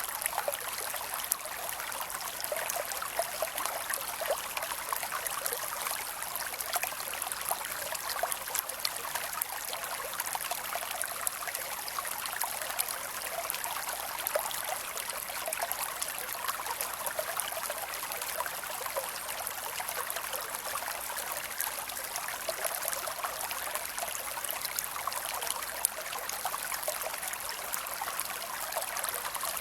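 Creek water flowing and trickling, a steady, even splashing rush with a mass of small bright gurgles.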